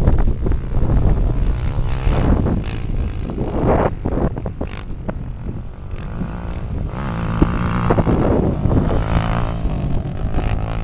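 250 cc off-road racing engines running and revving, their pitch rising and falling as they pass, with wind buffeting the microphone.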